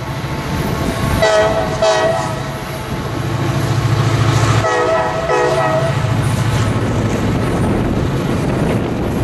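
Freight train's autorack cars rolling past over a grade crossing: a steady low rumble with wheel clatter. Two pairs of short, high tones sound over it, about a second in and again about five seconds in.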